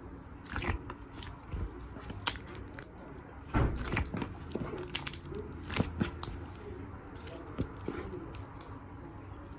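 Ice slime being pressed and handled, its crisp surface crackling and crunching in irregular clusters of sharp clicks.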